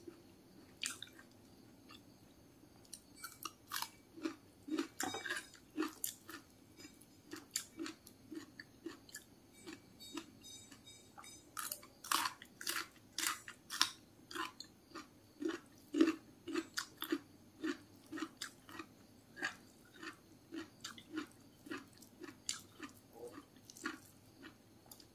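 Close-up chewing and lip-smacking of a person eating rice, egg and raw vegetables by hand: wet clicks and smacks at a steady rhythm of about two chews a second.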